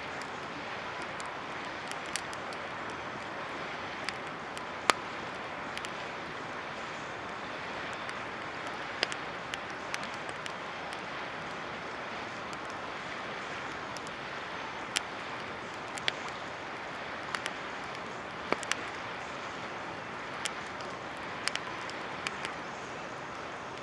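Wood campfire burning: irregular sharp crackles and pops, about one every second or two, over a steady hiss.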